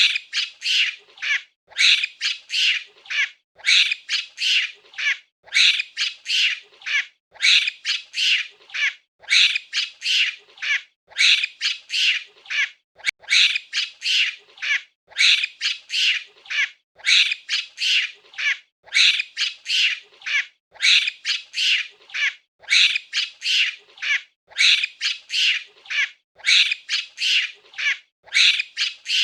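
Monkey giving shrill, high-pitched calls in quick runs of three or four, the runs coming again about every two seconds at an even pace.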